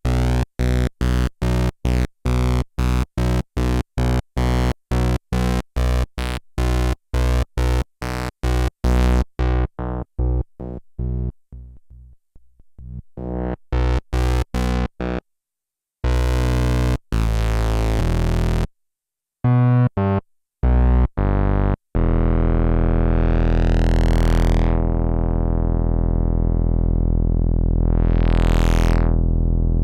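Sequential analog synthesizer played without accompaniment. A quick run of short staccato notes thins out and fades, followed by held notes and then a sustained chord whose filter is swept open and closed twice.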